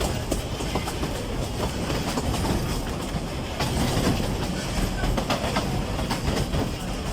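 Narrow-gauge forest railway train hauled by an Mk48 diesel locomotive, running along the track with a continuous low rumble and scattered clicks of wheels over the rail.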